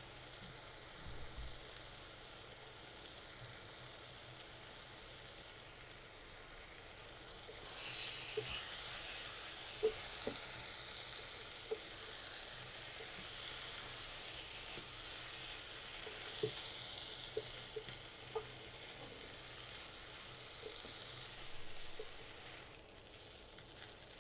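Shredded fish and onion masala frying in a non-stick kadai: a faint sizzle that grows louder about eight seconds in as it is stirred. A wooden spatula knocks lightly against the pan a dozen or so times, while the curry is fried dry until its water has cooked off.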